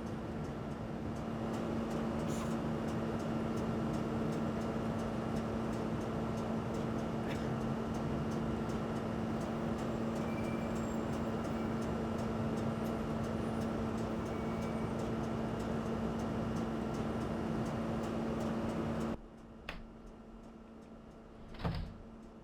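Steady running drone inside a train's driver cab, a constant hum over rumbling noise. It cuts off suddenly near the end, leaving a quieter background with two short knocks.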